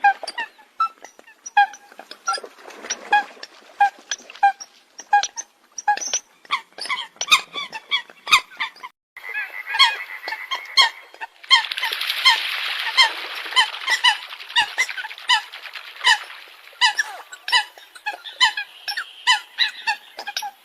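Eurasian coots calling: many short, sharp, honking calls in rapid, overlapping succession, as from several birds. A steady hiss sits under the calls for several seconds past the middle.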